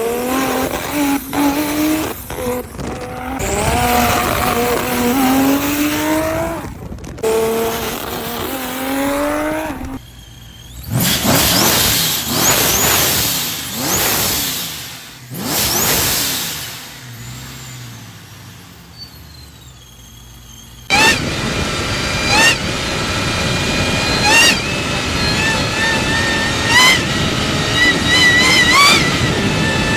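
Boosted car engines in three back-to-back clips. First, revving with pitch rising and falling. About a third of the way in, cars accelerating past with whistles gliding up and down. In the last third, a steady high forced-induction whine that sweeps up in pitch several times as the engine revs.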